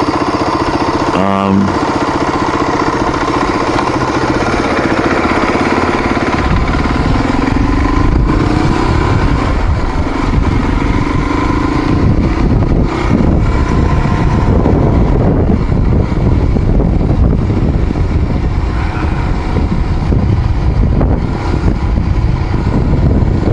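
Motorcycle engine running while riding. It is a steady hum for the first few seconds, then a rougher low rumble from about six seconds in.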